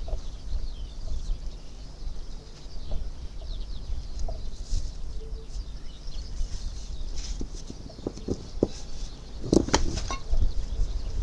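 Birds chirping over a low rumble, with a short cluster of clicks and knocks about nine and a half seconds in.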